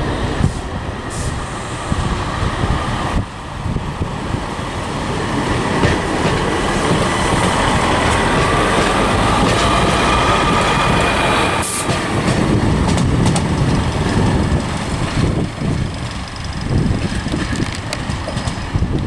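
Class 156 Sprinter diesel multiple unit pulling out of the station, its diesel engine running under load with wheel and rail noise. A single sharp click comes near the middle.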